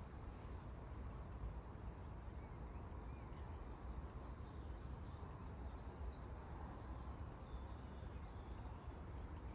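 Steady outdoor background noise, a low rumble and hiss, with a few faint bird chirps about four to six seconds in.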